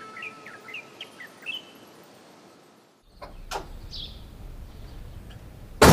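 Birds chirping, a quick string of short rising chirps that fades out. After a brief hush come a couple of light clicks, another chirp, and a loud door thud near the end as a heavy front door is worked.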